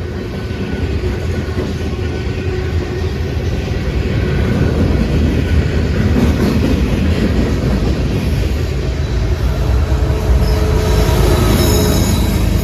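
Freight train rolling past, its wheels and cars making a steady rumble that builds over the first few seconds and stays loud. A faint high wheel squeal comes in near the end.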